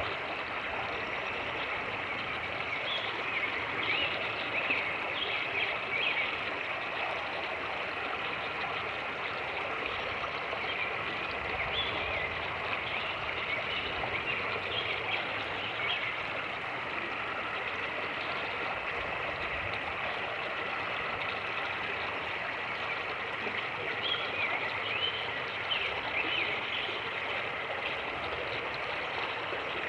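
Fast-moving creek rushing steadily, with small splashes and gurgles scattered through the flow.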